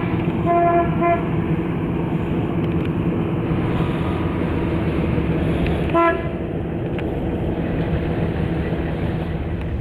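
Car horn sounding three short toots in the first second and one more about six seconds in, over steady engine and road noise from a running car.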